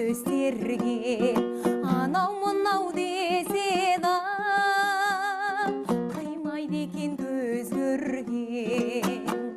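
Kazakh folk song: a woman's voice holds a long, wavering note through the middle over a strummed plucked string accompaniment.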